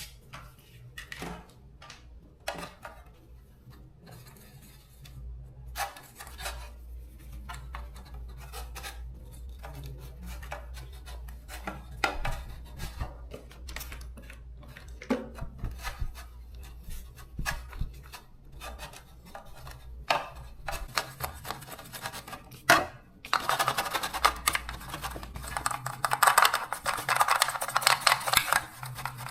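Hand work on fan motor parts: scattered light clicks and scrapes of metal being handled, with one sharp click, then several seconds of steady rasping scraping near the end, the loudest part.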